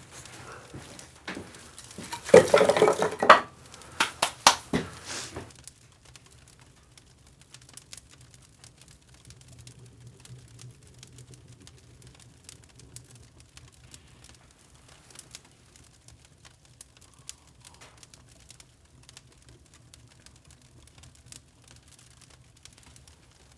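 Pieces of firewood clattering and knocking together as they are handled and set down, a burst of knocks about two seconds in that dies away by about five seconds. After that, only faint scattered crackles.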